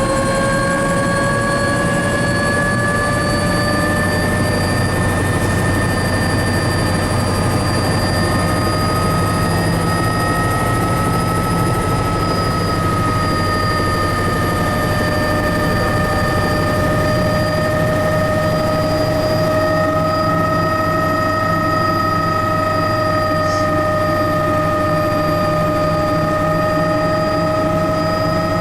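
Helicopter in flight: a steady, loud turbine whine over a low rotor drone. The whine rises slightly in pitch over the first few seconds, then holds steady.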